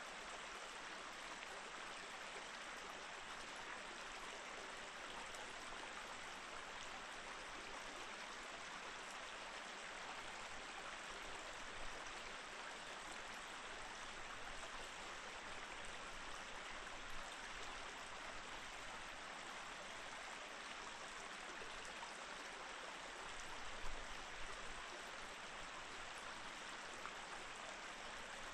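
Snowy mountain stream flowing, a steady even rush of water over rocks, with two brief louder splashes about twelve and twenty-four seconds in.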